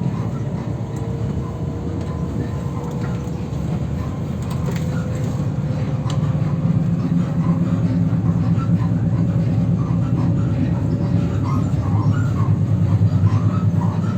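Ivolga (EG2Tv) electric suburban train running with a steady low rumble. From about halfway on, short squeaks repeat several times a second: the car creaking and squeaking badly.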